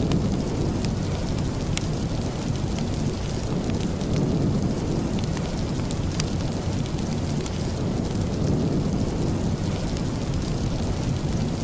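Steady rain with a deep, low rumble underneath and a few sharp crackles scattered through it.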